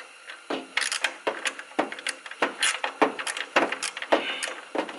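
Ratchet and socket clicking and clattering in short, irregular strokes, about two or three clicks a second, as a bolt that won't start is worked at.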